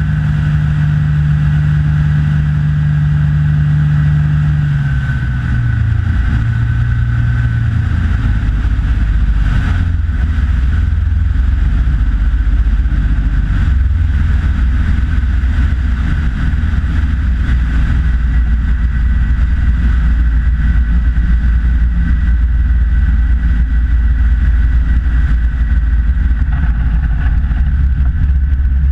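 Rans S6 light aircraft's engine and propeller droning in flight. About four to eight seconds in, the note drops in several steps as power is eased back, then runs steady at the lower setting.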